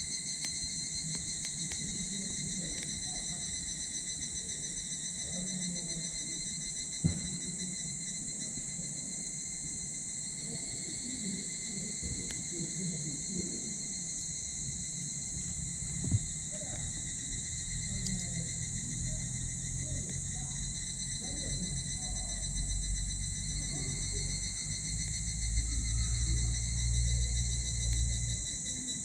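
Steady evening insect chorus, with the soft crackle of a small wood fire burning in a titanium wood stove and two sharp pops from the fire, about seven and sixteen seconds in. A low rumble rises through the second half.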